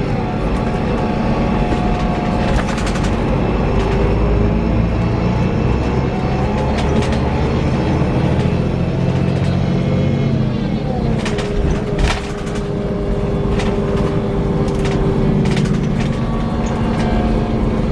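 Scania K340 coach under way, the engine and drivetrain running with a whirring whine that slides in pitch and then holds steady for several seconds, over scattered sharp rattles and clicks.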